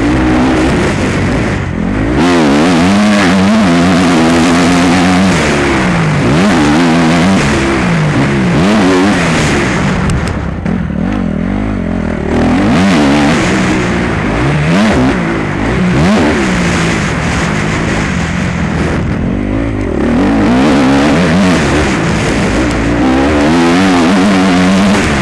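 Motocross bike engine revving hard and easing off again and again, its pitch climbing and dropping with each burst of throttle as it is ridden around a dirt track.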